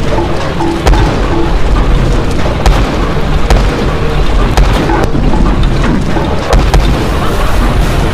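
Loud, continuous low rumble of an 8-ton road roller, with repeated sharp knocks and cracks as its drum rolls over a row of tubes.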